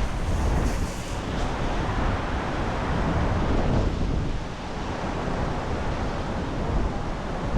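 Strong storm wind gusting and buffeting the microphone, over the rush of big waves on a lake.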